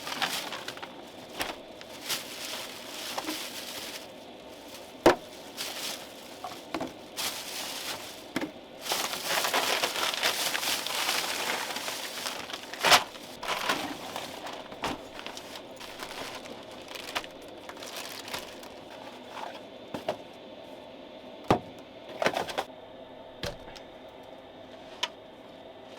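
Handling noises: rustling and crinkling with scattered sharp knocks and clicks, and a longer stretch of rustling about a third of the way in.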